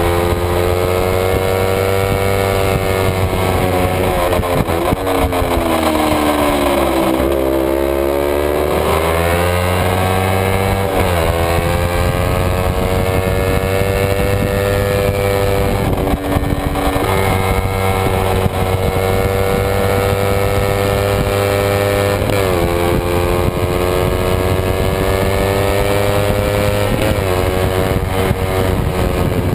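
Kawasaki Ninja 250 race bike's parallel-twin engine at racing revs, heard onboard. The pitch sinks steeply for a few seconds as the bike slows for a corner, then climbs again, with a brief dip at each upshift every five seconds or so.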